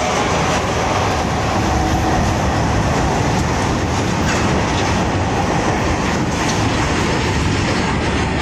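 Freight train of open-top box wagons running through a station at full speed: a loud, steady rumble and rattle of the wagons and their wheels on the rails.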